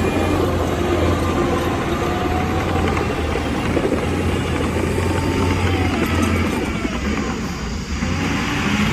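Diesel engine of heavy earthmoving machinery running, its note rising and falling a little as the engine speed changes.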